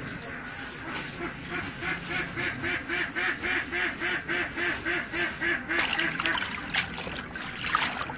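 A fowl calling in a quick, even series of nasal calls, about three a second, starting about a second in and stopping about six seconds in.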